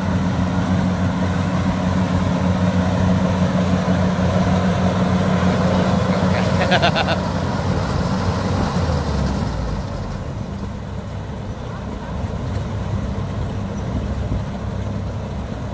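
Kubota combine harvester running with a steady diesel drone and the rough clatter of its cutting and threshing gear. There is a brief fast rattle about halfway through, and after about two-thirds the higher clatter fades and the sound drops a little.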